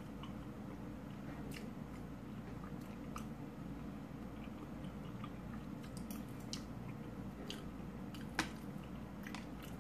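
A person chewing a mouthful of stuffed bell pepper close to the microphone, with a few light clicks of a fork on the plate, the sharpest a little after eight seconds in. A steady low hum runs underneath.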